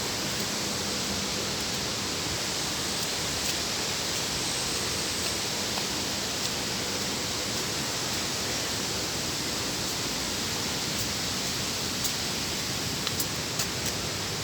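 Steady, even rushing of flowing water from a mountain stream or waterfall, with a few faint clicks near the end.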